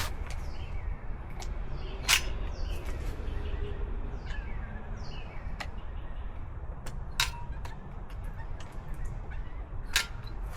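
Several sharp knocks at irregular intervals, three of them louder than the rest, over a steady low rumble.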